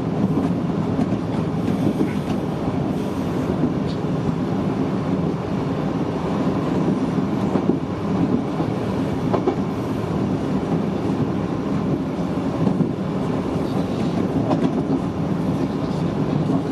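Kintetsu 6020-series commuter train running along the line, heard from inside the driver's cab: a steady running noise of wheels on rail, with occasional clicks.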